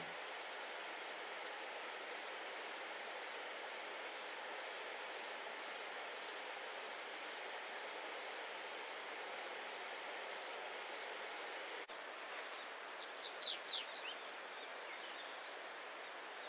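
Outdoor ambience: a steady hiss with a high, even drone over it, which cuts off abruptly about twelve seconds in to a quieter background. About a second later a bird gives a quick run of short, falling chirps.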